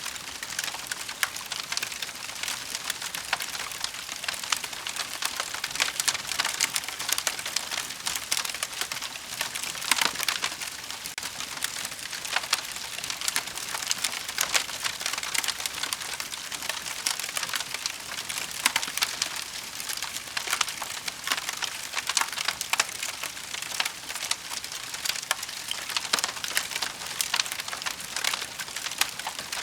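Wood fire burning in a fireplace, crackling and popping with many small sharp snaps over a steady hiss.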